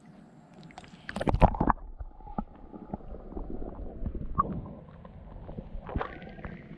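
Water sloshing and gurgling in a small pool, with a burst of louder splashing about a second in.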